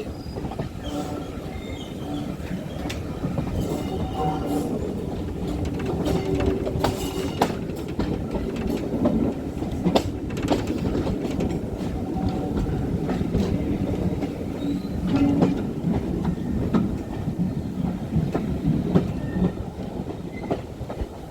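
Steam-hauled passenger train behind GWR Manor class 4-6-0 locomotive 7828 Odney Manor running past, a steady heavy rumble with wheels clicking over rail joints and brief wheel squeal.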